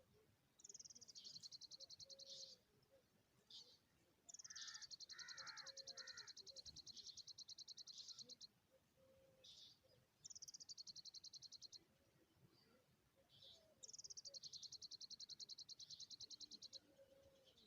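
A bird trilling: four long, rapid, high-pitched trills, each lasting two to four seconds, with a brief lower chirping under the second one.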